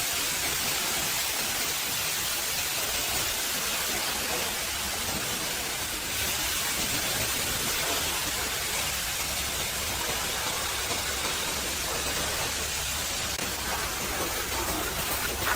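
High-pressure water spray from a pressure washer, a steady hiss as the jet plays over a truck.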